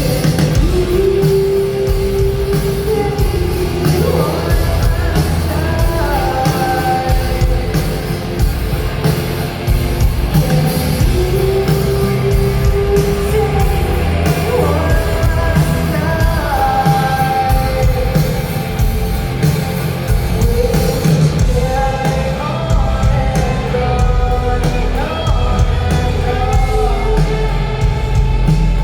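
Live rock band playing with a woman singing the lead vocal over a heavy, continuous drum and bass backing.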